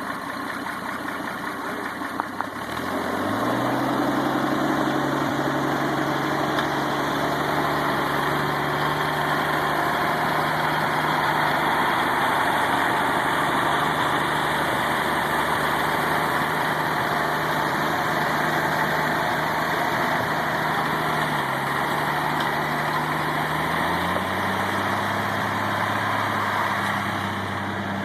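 Harry Ferguson tractor engine running steadily while its newly replaced PTO shaft and hydraulic pump are tested. The engine speeds up about two and a half seconds in and again near the end.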